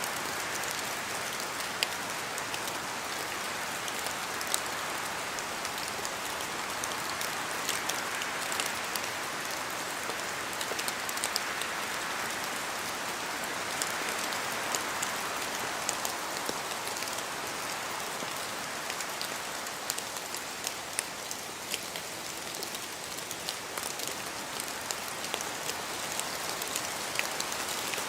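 Steady rain falling in a spruce forest, an even hiss that swells and eases gently, with scattered sharp ticks of single drops falling from the trees.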